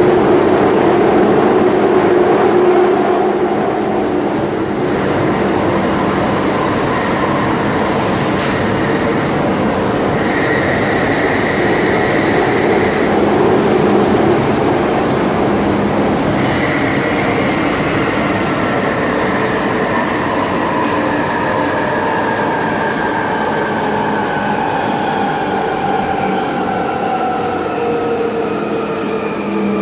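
Alstom 1996 Tube Stock train running between stations, heard from on board: a steady rumble and rail noise. There is a brief steady high tone about ten seconds in, and from about halfway several motor whine tones fall slowly in pitch as the train slows.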